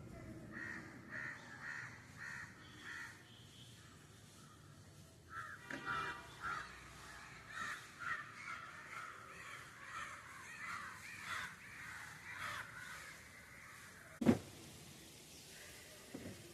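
Crows cawing over and over, a short run of calls and then a longer, denser run of overlapping caws. About fourteen seconds in, a single sharp thump, the loudest sound.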